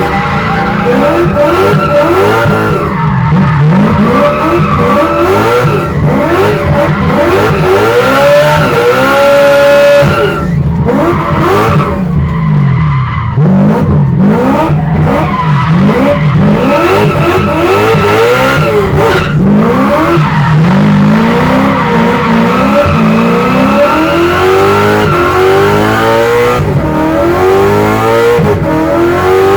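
V8 engine of a BMW 1 Series with an M3 engine swap, heard from inside the cabin, revving up and down over and over as the car drifts, with tyres squealing.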